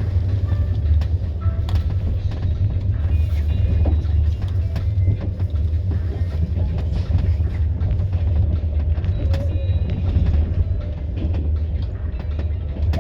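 Train moving along the track: a steady, deep rumble of the carriage running on the rails, with faint scattered clicks.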